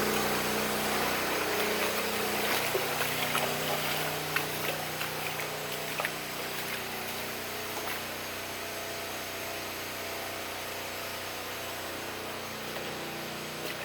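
A motor running steadily under a rushing hiss, with scattered light clicks and knocks.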